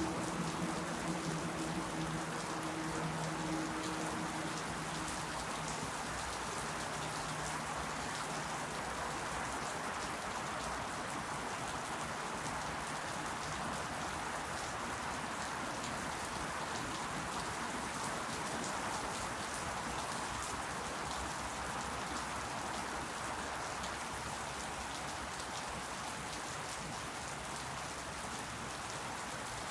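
Steady rain falling on surfaces: an even hiss of many drops. A faint low hum fades out over the first few seconds.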